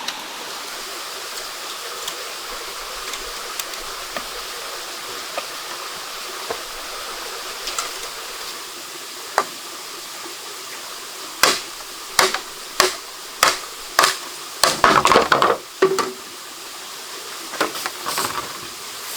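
Steady water-like rushing with a few faint clicks. A little past halfway it gives way to a run of sharp knocks, about one every half second, thickening into a louder scraping cluster and then a few more knocks near the end.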